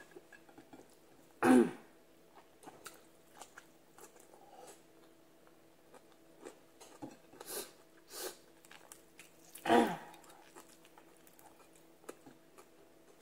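Close-miked chewing and mouth sounds of a person eating fried tilapia and rice by hand: soft bites, small clicks and smacks. Two louder short sounds from the throat stand out, about a second and a half in and near ten seconds.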